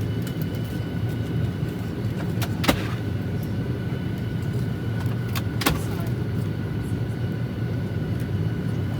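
Steady cabin air hum of a parked Boeing 737-800 during boarding: a low rumble with a thin steady whine over it, broken by two sharp clicks about a third and two thirds of the way through.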